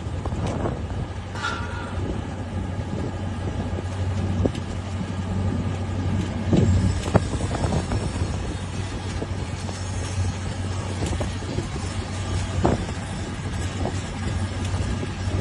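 A steady engine drone with a low hum and a few scattered clicks and knocks.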